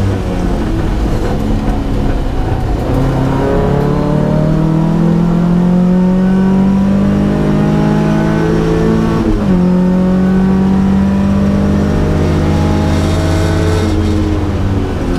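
Datsun P610 rally car's engine accelerating under load, its pitch climbing steadily, dropping sharply at an upshift about nine seconds in, then climbing again before easing off near the end.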